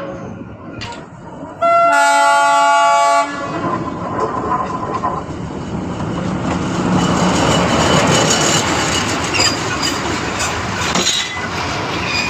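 Darjeeling Himalayan Railway narrow-gauge train sounding its horn once, loud, for about a second and a half, then running past with a steady rumble and the clatter of wheels on the rails.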